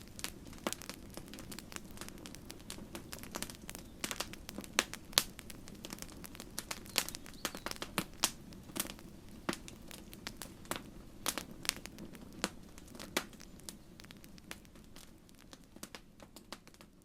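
Wood campfire crackling: irregular sharp pops and snaps, a few loud ones, over a low steady rush of burning, thinning out near the end.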